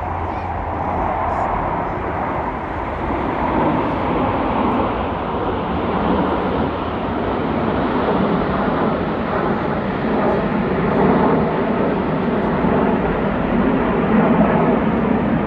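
Military jet aircraft flying over: a broad, continuous jet roar that grows gradually louder.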